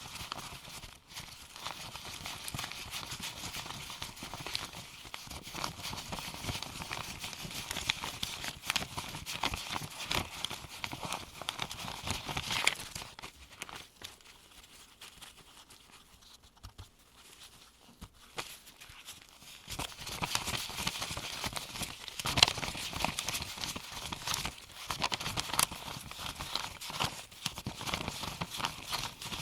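Paper US $1 bills counted one by one into a pile with gloved hands: a steady run of crisp paper flicks, rustles and soft slaps as each bill lands. The sound drops to a quieter stretch for several seconds midway, then picks up again.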